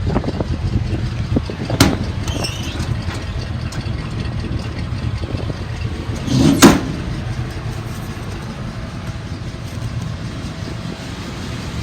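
Dodge Ram 3500's 5.9-litre gas V8 idling steadily, an engine the seller says has a slight misfire at idle. Two sharp knocks cut through the idle, one about two seconds in and a louder one about six and a half seconds in.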